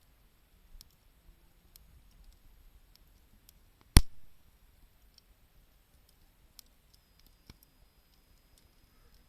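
Campfire crackling, with sparse small ticks and one sharp, loud pop about four seconds in.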